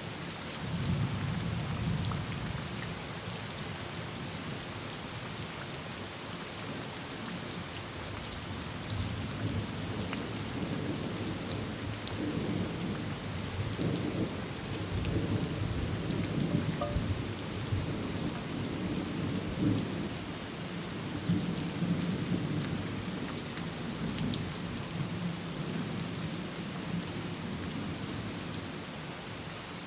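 Heavy rain drumming on a tin roof, a steady hiss, with low rolling thunder that swells about a second in and rumbles on through the middle.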